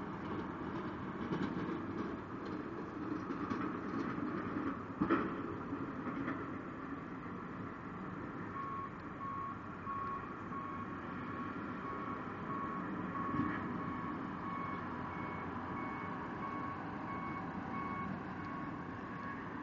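A vehicle's reversing alarm beeping at an even pace, about one and a half beeps a second, starting about halfway through, over a steady low rumble. A single knock sounds about five seconds in.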